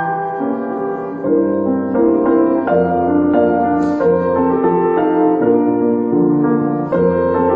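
Solo piano music: a slow classical piece played in sustained chords and melody notes.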